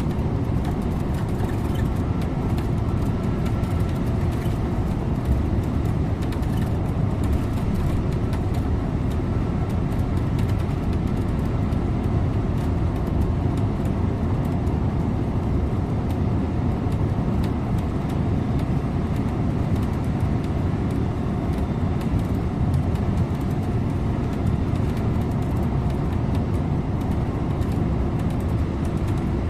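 Scania InterLink bus driving at a steady pace: an even drone of engine and tyre noise with no change in speed.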